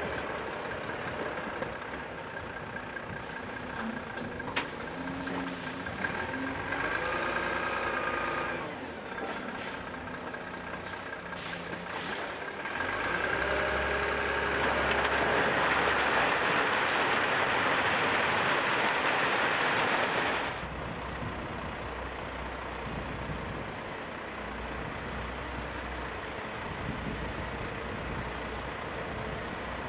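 Heavy tipper truck engines running at a building site, then a loud, even rushing noise for about seven seconds in the middle as a load of crushed stone pours out of a tipper body, stopping abruptly.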